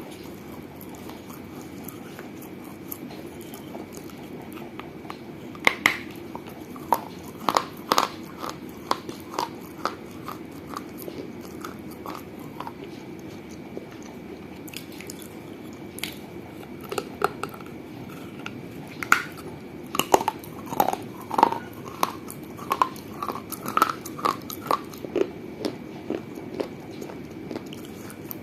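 Teeth biting and crunching pieces of a mini fired-clay gullak (piggy bank): sharp crisp cracks, first a few scattered bites about six seconds in, then a pause, then a quick run of crunches in the second half. A steady low hum lies under them.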